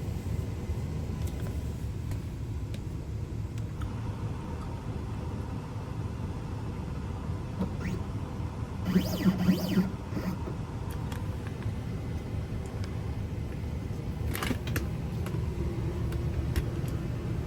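Steady low rumble of a running vehicle engine, with a brief louder pitched sound about nine seconds in and a sharp click a few seconds before the end.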